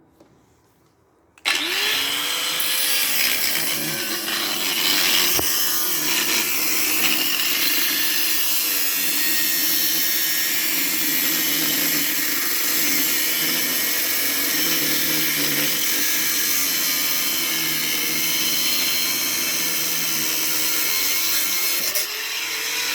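Power tool motor switched on about a second and a half in, spinning up and running steadily at high speed with a loud whirring hiss, then winding down near the end.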